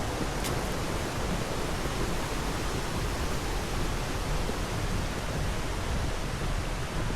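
Steady rush of water falling over the cascades of a tiered limestone waterfall.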